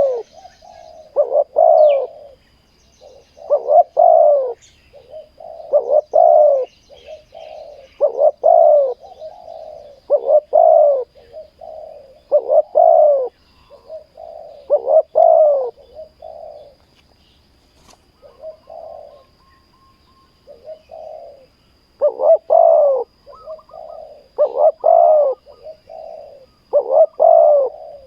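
Spotted dove cooing: loud, repeated coo phrases about every two seconds, with a lull of a few seconds past the middle. Faint small-bird chirps sound high above.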